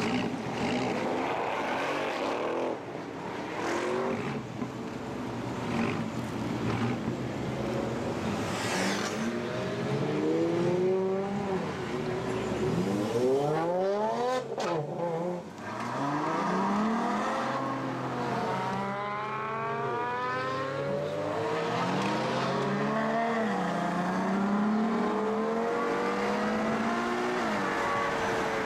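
Several supercar engines revving and passing by, their pitch rising and falling as they go. There is a sharp fly-by rise and drop about halfway through.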